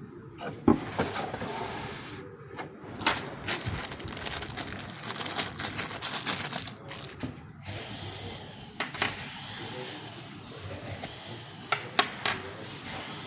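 Handling noise from unpacking a 12 V electric fan: irregular rustling of packaging with scattered clicks and knocks, the sharpest about a second in and near the end.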